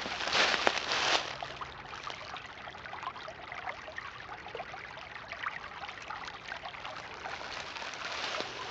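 Small creek trickling and bubbling over rocks, a steady babble of water. A few louder rustling strokes come in the first second.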